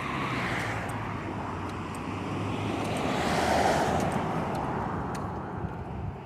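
Road traffic passing a cyclist: a motor vehicle's engine and tyre noise swells to a peak about three and a half seconds in, then fades away.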